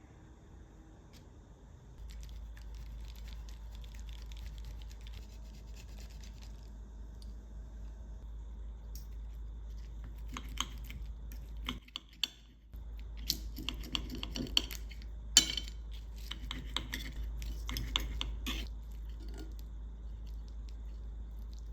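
Scattered clicks, knocks and scraping of kitchen containers, utensils and packaging being handled, thickest in the middle of the stretch with one sharp knock standing out, over a steady low hum.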